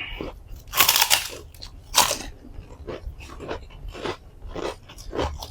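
A person chewing and crunching food close to the microphone: irregular crunchy bites, the loudest about a second in and again at two seconds, then quieter chewing.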